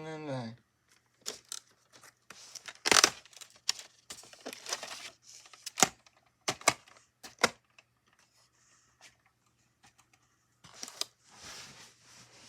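Handling of a VHS tape and its plastic case: a string of sharp clicks and short rustles, with a longer rustle near the end, over a faint steady hum.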